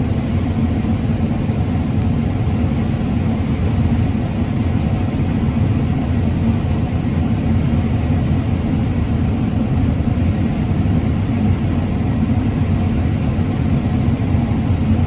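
Combine harvester running steadily while cutting corn: a continuous low engine and machinery rumble with a faint steady hum.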